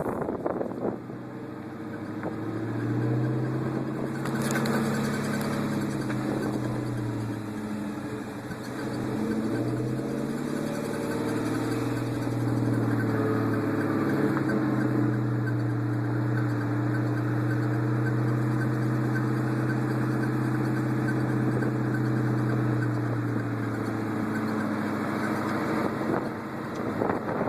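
2002 Mustang GT's V8 running as the car is driven, its note rising early on, dipping briefly, then holding steady. Over it comes the squeak from the rear of the car that new u-joints have not cured; its cause is unknown.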